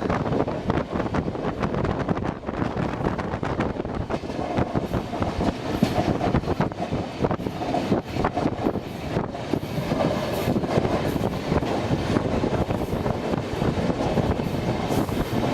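Train running on the track, its wheels clicking over rail joints in a steady, continuous clatter.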